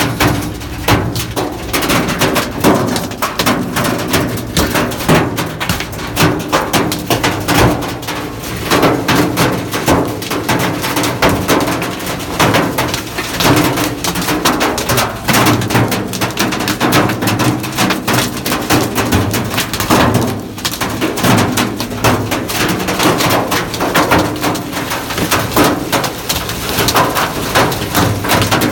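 Hailstorm: a dense, continuous clatter of hailstones striking hard surfaces.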